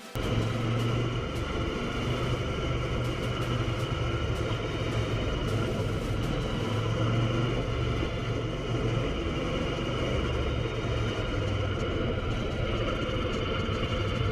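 Motorcycle engine running steadily while under way, its low note even throughout, with a constant hiss above it.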